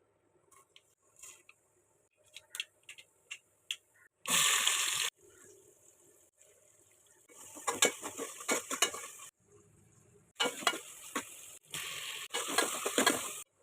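Cooking sounds from a pot or pan of liquid. First come a few light clicks of utensils, then several separate bursts of pouring or stirring noise. The first burst, about four seconds in, lasts about a second; the later ones are longer and crackle.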